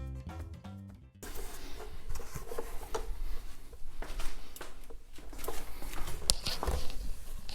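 Background music for about the first second, then it cuts to scattered clicks, knocks and rubbing of plastic wet/dry vacuum parts being handled and fitted back together.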